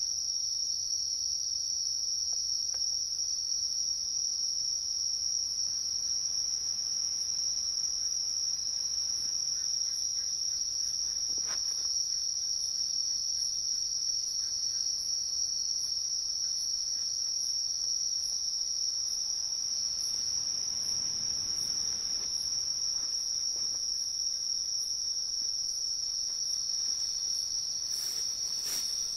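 Chorus of crickets and other night insects, a steady high-pitched trill that never breaks.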